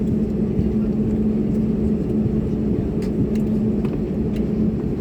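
Airliner cabin noise: a steady low rumble with a constant hum, with a few faint clicks just past the middle.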